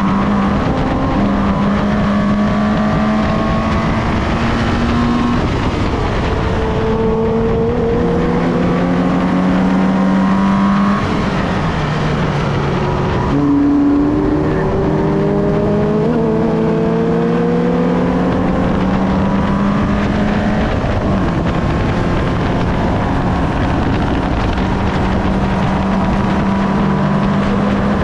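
Subaru BRZ's 2.0-litre flat-four engine driven hard on a racetrack, its pitch repeatedly climbing as it revs out and then dropping back for shifts and corners, over a steady rush of wind and road noise.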